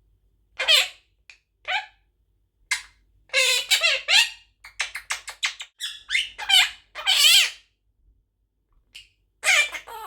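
Baby monk parakeet (quaker parrot) calling in a string of short, harsh squawks and chatter, several with quick up-and-down pitch, including a rapid run of short clicks about five seconds in.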